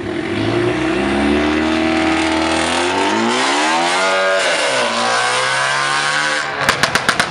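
A car engine accelerating, its pitch climbing, falling once about four seconds in as if on a gear change, then climbing again. Near the end comes a fast run of sharp cracks, several a second.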